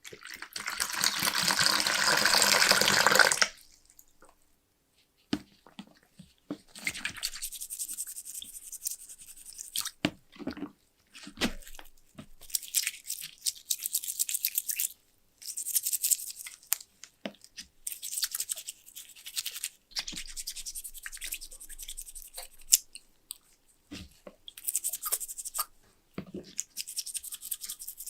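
Rapid back-and-forth scrubbing of a brush or abrasive against the lighter's metal case, in repeated bursts of a second or two. The first burst, at the start, is the loudest, and a few clicks fall between the strokes.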